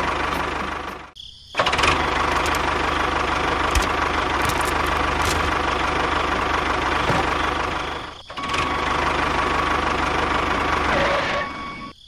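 An engine running steadily, cutting out briefly about a second in and again about eight seconds in.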